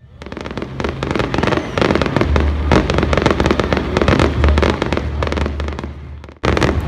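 Fireworks going off: a dense, rapid run of crackling and popping bursts. The sound cuts out abruptly for a moment near the end, then resumes.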